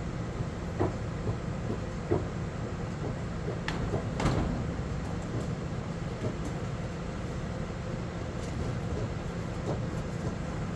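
Crane truck engine running steadily with a low rumble, with several metal clanks and knocks from the lifted equipment, the loudest about four seconds in.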